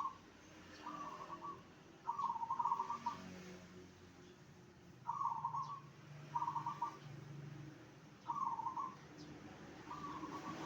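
Zebra dove (perkutut) cooing: short, stuttering phrases of rapid notes, repeated about every one to two seconds with gaps between.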